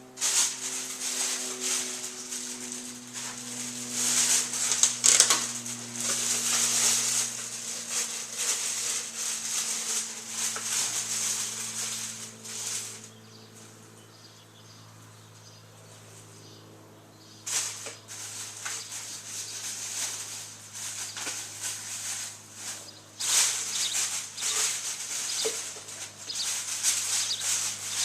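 Birds fluttering their wings in repeated rustling bursts. The bursts pause for a few seconds around the middle, then start again, over a steady low hum.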